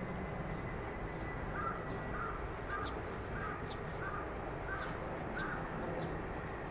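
A bird giving a series of seven short calls, about two-thirds of a second apart, with a few faint higher chirps among them, over a steady low background rumble.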